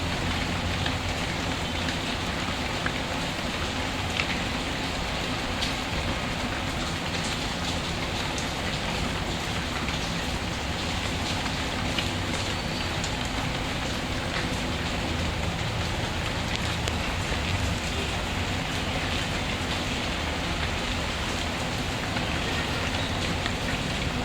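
Steady rain falling, with scattered small crackles and pops from a wood fire in a fireplace.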